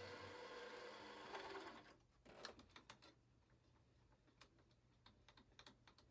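Faint steady machine hum that cuts off just under two seconds in, followed by scattered light clicks.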